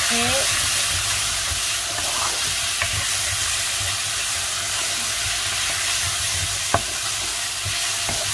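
Chicken pieces and shallots sizzling steadily in a non-stick frying pan as a wooden spatula stirs and turns them, with small scraping clicks throughout and one sharper click about two-thirds of the way in.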